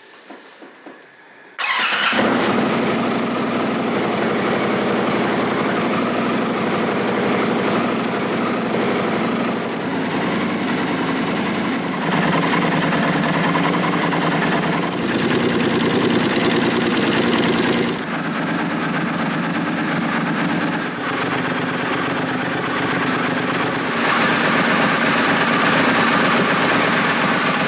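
A Triumph Scrambler 1200's parallel-twin engine, breathing through a TEC Flank 2-into-1 tailpipe exhaust, is started from cold. It catches about two seconds in and then idles steadily at tick-over with no revving, while the ECU learns the new exhaust.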